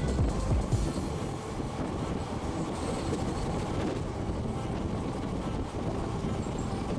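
Passenger train running, heard from on board: a steady rumble and rush of wheels on the track, deeper in the first second.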